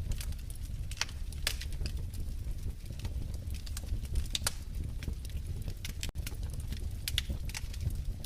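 Wood fire in a fireplace crackling, with irregular sharp pops over a steady low rumble of the flames. The sound drops out for an instant a little after six seconds in.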